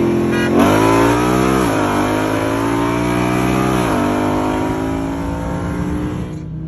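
Car engine held at a steady speed, then floored and revving up hard through the gears: two upshifts, each a sudden drop in pitch followed by another climb. This is wide-open-throttle acceleration in a roll race.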